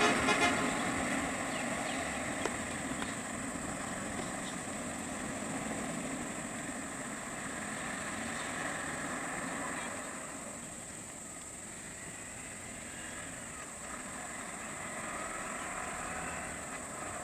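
A vehicle engine running steadily at idle under a constant high-pitched hum, the whole dropping a little about ten seconds in.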